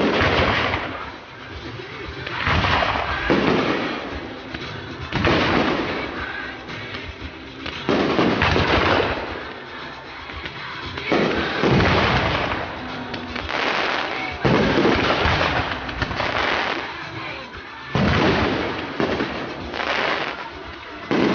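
Firework shells bursting one after another in a display, about every two to three seconds. Each burst starts with a sudden bang and trails off over a second or so.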